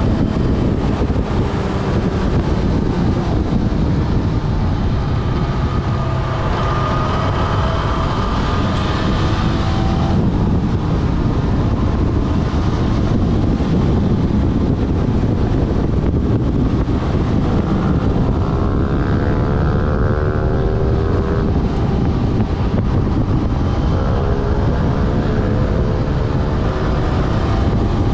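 Yamaha Fazer FZ6S's 600 cc inline-four engine running under way, its pitch climbing several times as the bike accelerates, beneath heavy wind rush on the bike-mounted camera.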